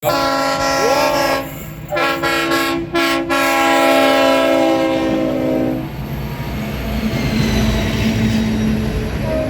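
Multi-tone train horn sounding in long blasts, broken briefly about one and a half and three seconds in, and stopping about six seconds in. A train then rumbles past, and the horn starts again near the end.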